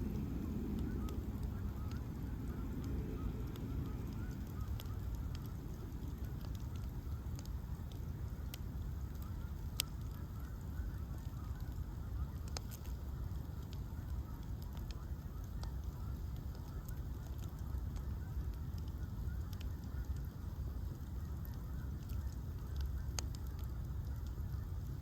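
Bonfire of ash logs burning: a steady low rumble of the flames with scattered sharp crackles and pops, one louder pop about ten seconds in.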